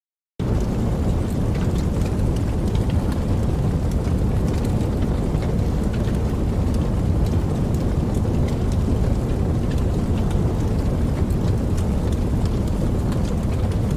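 Recorded rain falling steadily, starting abruptly less than half a second in, with a heavy low rumble under a faint patter of drops.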